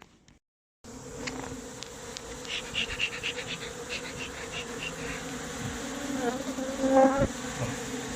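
Honeybee swarm buzzing in a steady hum, cutting in suddenly about a second in, with a few light knocks and a louder swell near the end.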